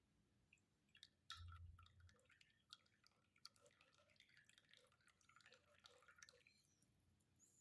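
Tea being poured in a thin stream, faint trickling and dripping for about five seconds, with a soft knock just before it starts.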